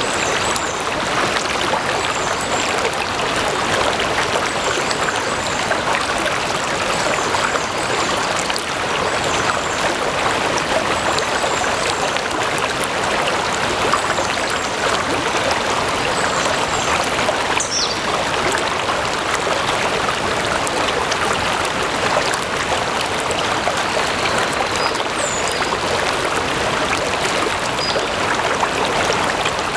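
A stream of water flowing and trickling steadily, with a few faint high chirps over it now and then.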